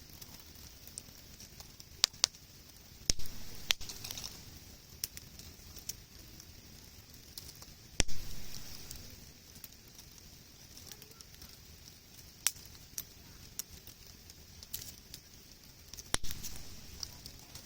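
Wood campfire crackling, with sharp pops scattered through it; the loudest come about three seconds in, about eight seconds in and near the end.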